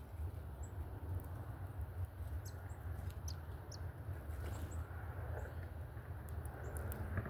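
Scattered short, high bird chip notes, several in a few seconds, over a steady low rumble.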